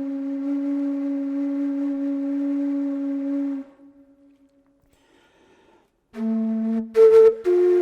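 Saxophone holding one long steady note that dies away after about three and a half seconds. Near silence follows for a couple of seconds, then a new phrase of louder, sharply attacked notes begins near the end.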